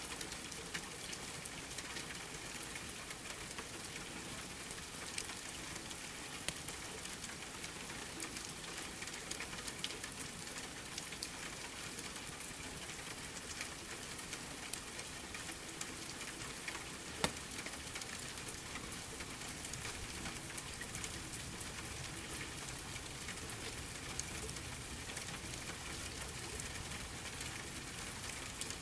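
Steady rain mixed with a crackling wood fire: small pops and snaps throughout, with one sharper pop a little past halfway.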